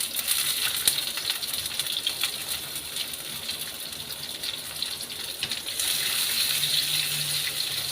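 Garlic and onion sizzling in hot oil in a pan: a steady hiss with small crackles, growing louder about six seconds in.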